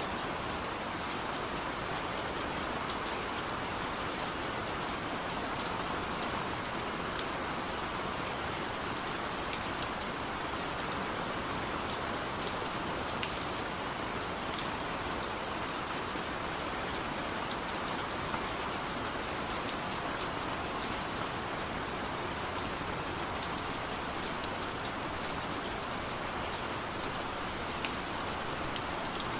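Steady rain falling, a dense even patter with scattered sharper drop ticks; no thunder.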